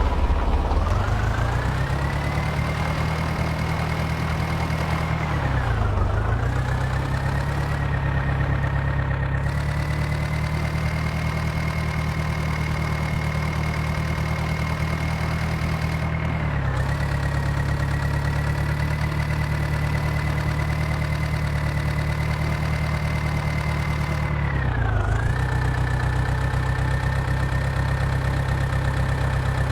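Tractor engine running steadily at high revs. It climbs in pitch over the first couple of seconds, then dips sharply and recovers three times, about 6, 16 and 25 seconds in.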